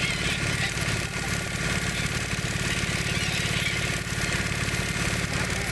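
Motorboat engine running steadily with an even low throb.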